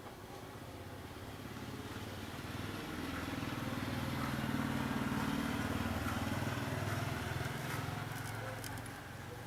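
A passing motor vehicle's engine, growing louder for a few seconds and then fading away.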